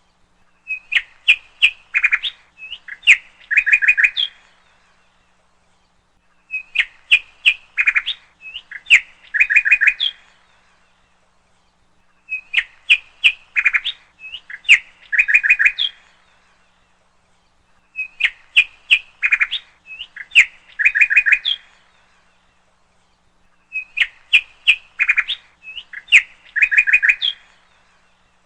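A songbird singing the same phrase of quick, sharp chirps over and over, about every six seconds, with silence between the phrases.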